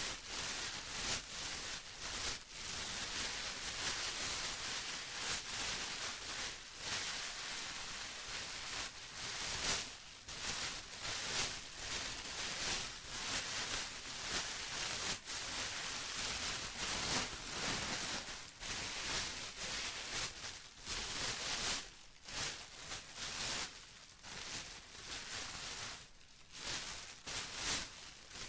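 Plastic being crumpled and rustled by hand, a continuous crinkly crackle that swells and eases every second or so.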